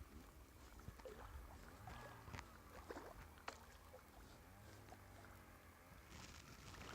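Near silence: faint wind rumble on the microphone with light water lapping and a few soft clicks.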